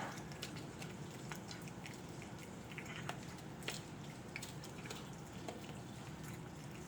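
Cat eating, with irregular small clicks and crunches from its mouth and the food bowl.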